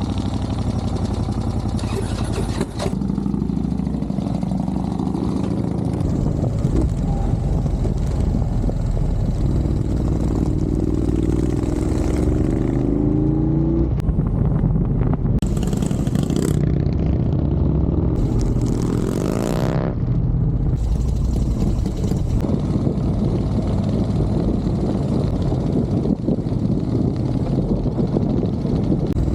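Vehicle engine under hard driving through bends, running continuously. The revs climb and then drop sharply as a gear is changed, most clearly about ten seconds in and again near twenty seconds.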